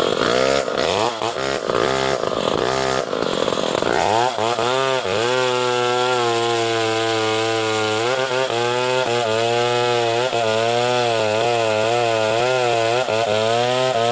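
Chainsaw cutting into a log, its engine pitch dipping and recovering several times under load; after about four seconds it settles into a steady run with only a slight wavering in pitch.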